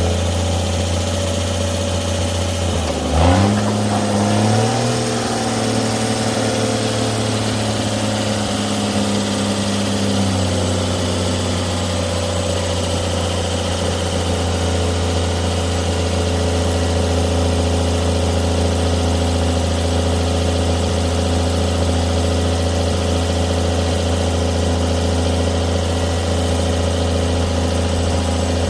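Winch truck's engine running at idle; about three seconds in it revs up and holds a higher speed until about ten seconds in, then settles back to a steady idle.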